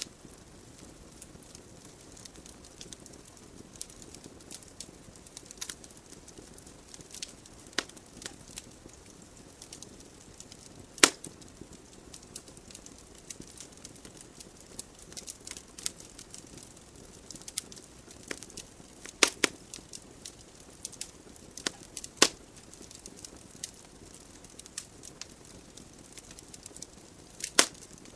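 Wood logs burning in a fireplace: a steady soft hiss of flames under frequent small crackles and occasional sharp pops, the loudest a few at irregular intervals.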